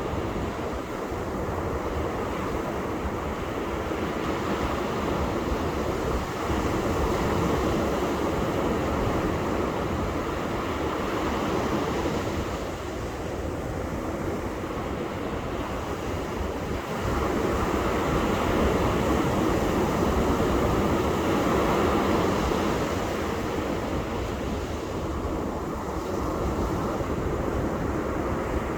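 Ocean surf breaking and washing onto a beach: a continuous rush that swells louder twice, about seven seconds in and again about eighteen seconds in.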